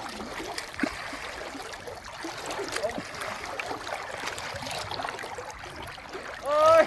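Flowing river water trickling and gurgling, with a short loud call from a person's voice near the end.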